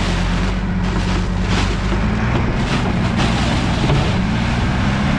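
Strong wind buffeting the microphone in repeated gusts, over a steady low engine hum.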